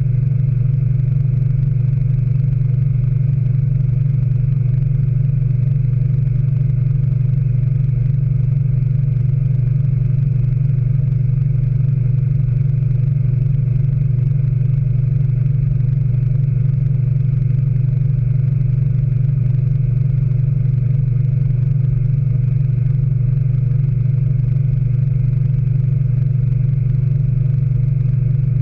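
Speed Queen AWNE92 9 Series washing machine in its final spin, running at a steady full spin speed with a loud, even low hum and a few faint steady whining tones above it.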